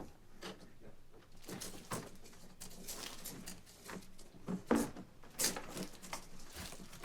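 Scattered light clicks and knocks, as of things being handled and moved, over a faint low steady hum.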